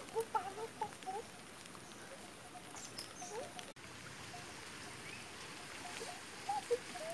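Short clucking bird calls, a quick cluster near the start and a few more near the end, over a faint outdoor background.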